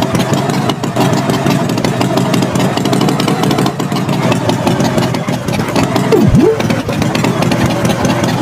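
Tractor engine running steadily at idle, with one quick swoop that drops sharply in pitch and rises straight back about six seconds in.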